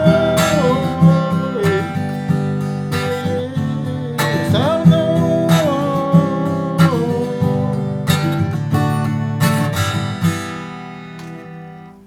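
Acoustic guitar strummed through the song's closing bars, the last chord ringing out and fading away near the end.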